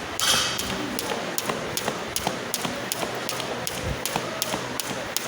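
Jump rope skipping, the rope ticking against the floor at an even pace of about three to four strikes a second.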